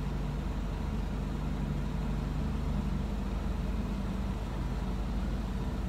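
Car engine idling, heard from inside the cabin, with the steady rush of the air-conditioning fan.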